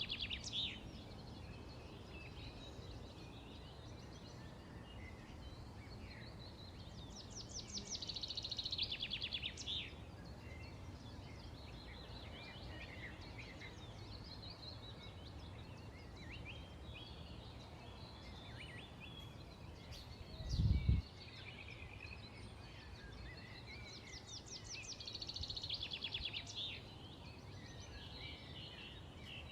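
Small songbirds chirping over a steady outdoor hiss, with three rapid trilling songs of a few seconds each, at the start, about a third of the way in and near the end. About two-thirds through there is one brief low thump, the loudest sound.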